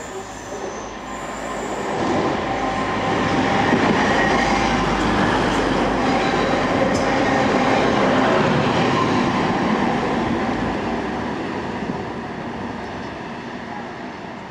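A TransPennine Express diesel multiple unit runs through the station platform at speed. The noise of its engines and wheels on the rails builds over the first few seconds, stays loud for several seconds as it passes, then fades as it runs away.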